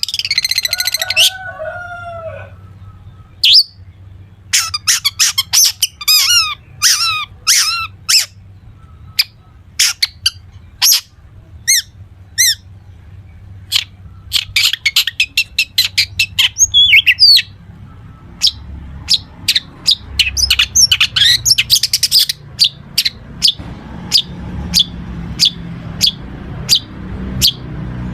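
Long-tailed shrike (cendet) singing a loud, varied mimicry song: a fast trill, bursts of sharp chirps and chattering, then a run of short sharp notes at about two a second near the end.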